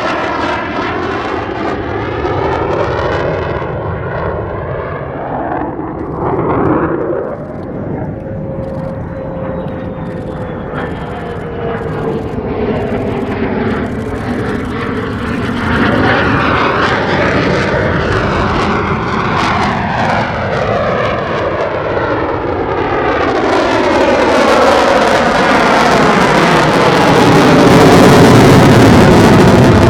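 F-35A Lightning II's Pratt & Whitney F135 turbofan thundering through a low pass, with the sweeping, hollow phasing of a jet passing by and a faint falling whine partway through. The jet noise grows steadily louder toward the end as the jet comes back in.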